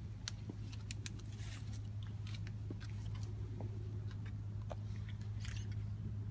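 A large crowd standing quiet for a moment of silence, with no voices: a steady low hum underneath, and scattered small clicks and rustles of people shifting.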